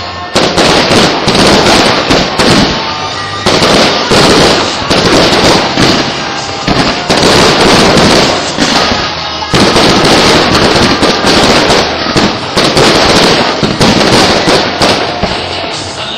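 Fireworks display going off in a loud, near-continuous barrage of bangs and crackles. Fresh volleys break out three times: right at the start, about three and a half seconds in, and about ten seconds in.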